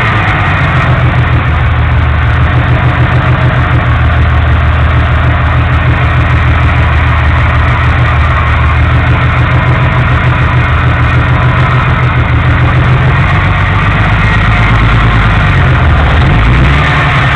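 1965 Jeep CJ-5's engine running steadily as the Jeep is driven, its speed dipping and picking up again a few seconds before the end.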